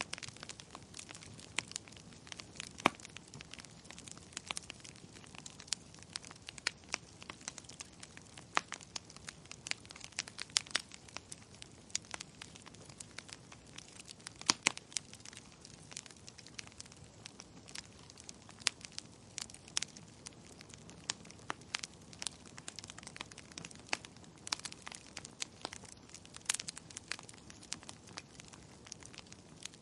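Fire crackling in a fireplace: irregular sharp pops and snaps, a few of them louder, over a soft steady hiss.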